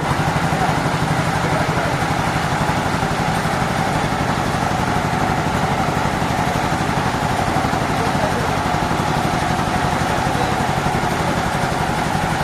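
Sawmill machinery running steadily: an engine with a fast, even pulse and a constant mid-pitched hum, with no change in load.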